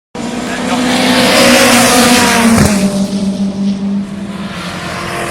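Ford Capri race cars passing at speed, the engine note swelling and then falling in pitch as they go by, followed by a steadier, lower engine note from about three seconds in.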